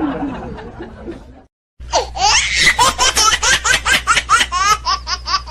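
Someone laughing hard: a quick string of high-pitched laughs that starts about two seconds in, after a brief silence.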